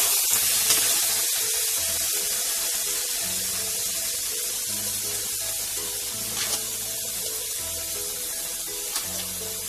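Vegetables sizzling in a steel kadai, a steady hiss, with a few light knocks of the plate or spatula in the second half, under background music with a slow, stepping bass line.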